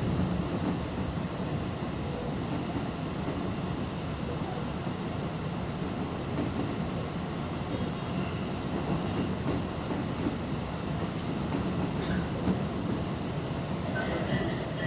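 Tobu 10050-series electric commuter train running between stations, heard from inside the passenger car: a steady rumble of wheels on rail and running gear, with faint high tones near the start and end.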